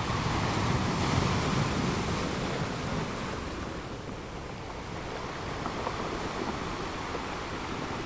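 Steady rushing outdoor noise with a heavier low rumble in the first couple of seconds that eases off about four seconds in.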